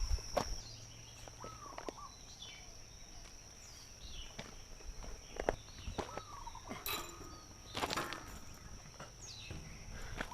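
Footsteps of hikers walking on a trail: irregular scuffs and steps. A few short hooked bird chirps come through, with a steady thin high-pitched tone behind them.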